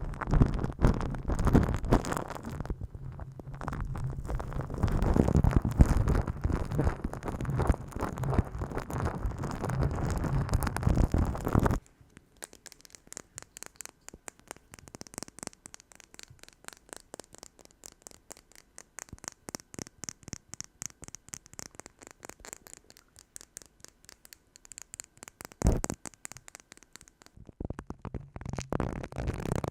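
ASMR massage and tapping sounds made close to the microphone: dense, rumbling rubbing and scratching for the first twelve seconds or so, then a sudden switch to quiet, rapid light tapping. One thump comes near the end, just before the rubbing starts again.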